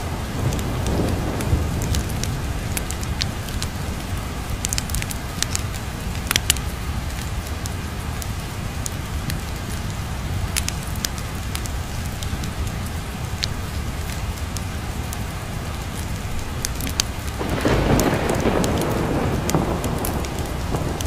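Steady rain with scattered sharp ticks. A low thunder rumble swells up about three-quarters of the way through.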